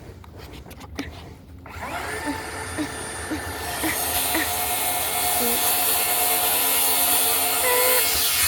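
An electric power saw starts about two seconds in and cuts through plywood, the noise building to a steady, loud run.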